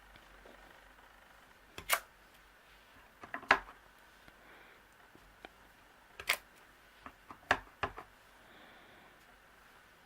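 Paper-crafting supplies handled on a desk: about six separate sharp clicks and knocks, such as ink pad lids and stamp blocks being picked up and set down, the loudest about three and a half seconds in.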